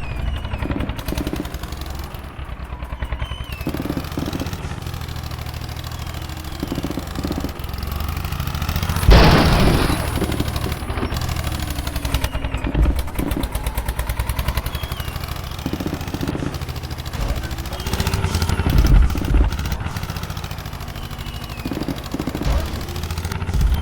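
Modified tractor's diesel engine running with a rapid, even exhaust beat, with a louder, noisier surge about nine seconds in.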